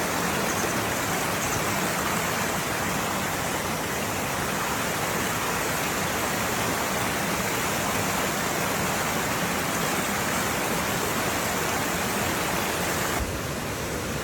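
Waterfall: a steady rush of falling water. It turns a little quieter and thinner about a second before the end.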